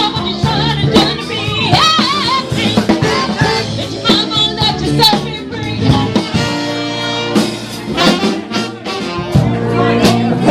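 Live band music: a drum kit and horns playing under a singer's voice.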